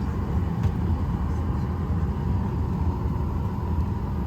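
Steady low rumble and hum inside an airliner's cabin while the plane is parked and not yet moving, with a faint steady tone and a few light clicks.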